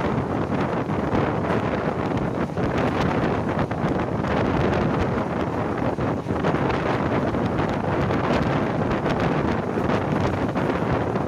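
Wind buffeting the microphone at the open door of a fast-moving passenger train coach, over the steady running noise of the train on the track.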